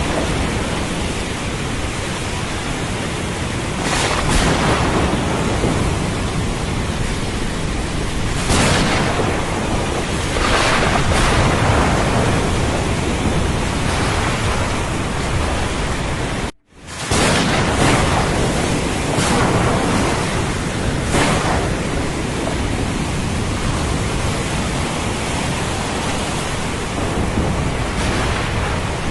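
Steady rain and ocean surf hiss from a thunderstorm-at-sea soundscape, with a louder surge every few seconds. The sound briefly drops out for a split second a little past halfway through.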